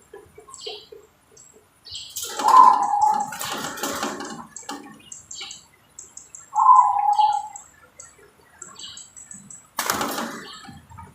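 Zebra dove (perkutut) cooing: two short phrases about four seconds apart. Noisy rustling bursts come with the first phrase and near the end, and faint high chirps run between them.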